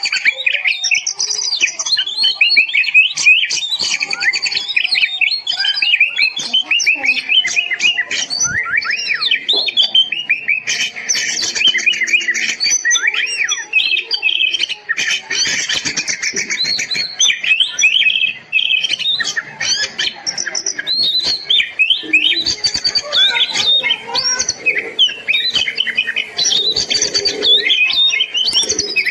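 Oriental magpie-robin (kacer) singing continuously and energetically ('gacor'), a fast unbroken stream of varied whistles, chirps and trills.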